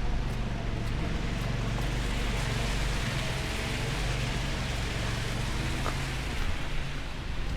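City street traffic in a snowstorm: a steady low engine rumble under a hiss that swells about halfway through and eases off near the end.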